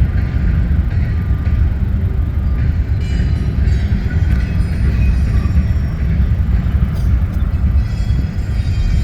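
Train passing close by with a steady, heavy low rumble. Faint high-pitched squeals join in from about three seconds in.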